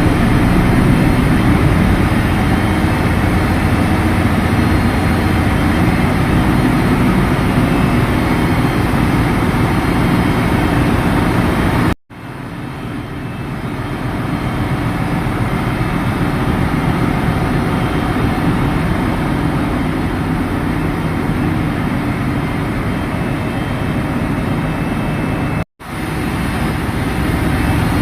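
Loud, steady drone of a ship's engine-room machinery running. The sound cuts out abruptly twice, about twelve seconds in and again near the end, then comes straight back.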